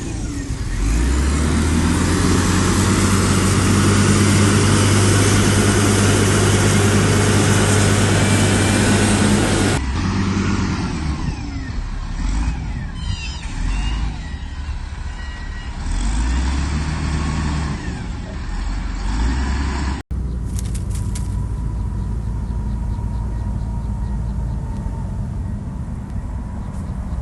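Diesel engine of heavy earthmoving machinery running steadily under load. The sound changes abruptly twice, about ten and twenty seconds in.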